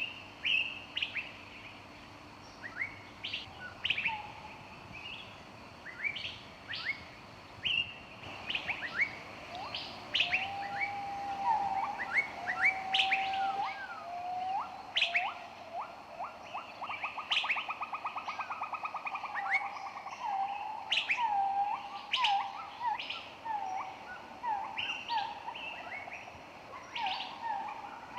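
Several songbirds chirping and singing at once. Short, sharp rising chirps repeat all through, over lower whistled notes, with a fast trill about halfway through.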